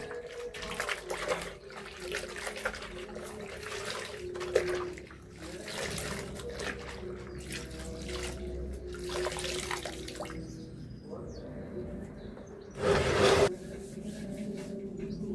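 Water running and splashing unevenly, with one short, louder rush about thirteen seconds in.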